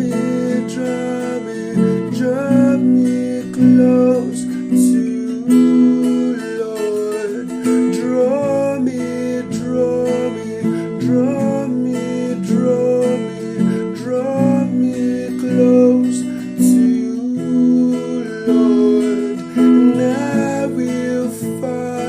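Acoustic guitar playing an instrumental passage of a slow worship song, strummed chords with a moving melody line over them.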